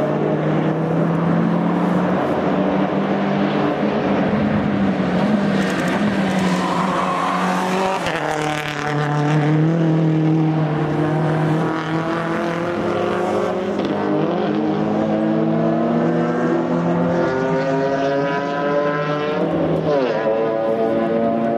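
Race car engines with open exhausts running hard, one after another. Their pitch climbs steadily and drops back at gear changes a few times.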